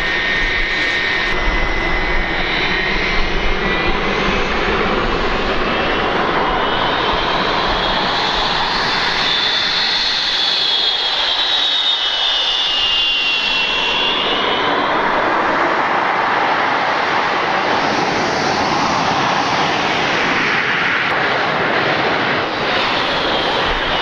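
Jet aircraft engine running loud, a steady rush with a whine that climbs in pitch over several seconds, then falls back and fades about two thirds of the way through. The aircraft is plausibly the L-29 Delfin trainer's single turbojet.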